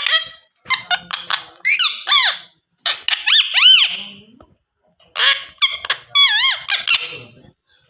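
Alexandrine parakeet calling in four loud bursts: runs of short, harsh notes mixed with shrill, wavering notes that swoop up and down in pitch.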